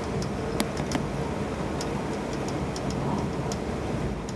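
Cabin running noise of an E6 series Komachi mini-shinkansen train travelling on the dual-gauge (three-rail) conventional line: a steady rumble with frequent light, irregular clicks, a few each second.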